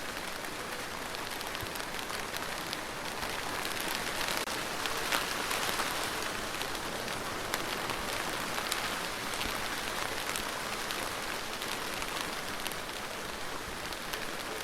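Steady rain falling on a surface, a dense hiss with many separate drop hits ticking through it, swelling slightly partway through.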